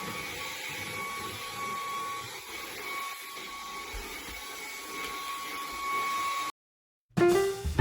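Steady mechanical hum with a faint high whine, cutting off suddenly near the end; music starts right after.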